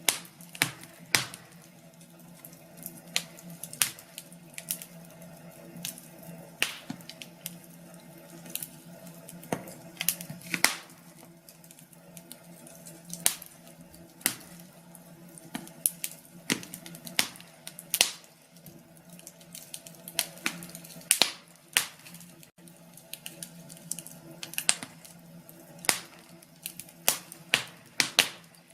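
Wood fire in a fireplace crackling, with frequent irregular sharp pops over a faint low hum.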